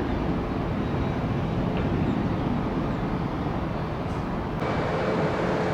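Jet airliner engines running, a steady rumble with hiss; about four and a half seconds in it swells slightly and a steady whine joins.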